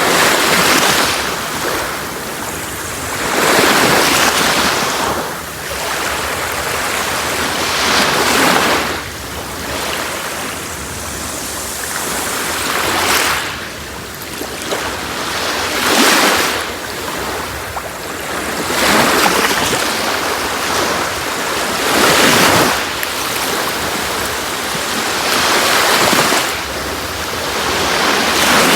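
Sea waves washing onto a shore: surf swells up and falls away about every three to four seconds.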